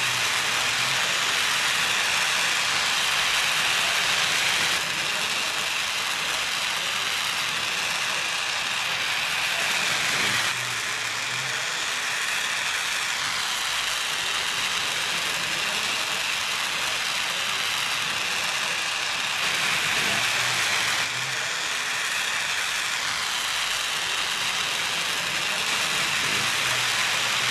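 Oxy-butane torch flame hissing steadily while brazing copper tube; the level steps down slightly a few times.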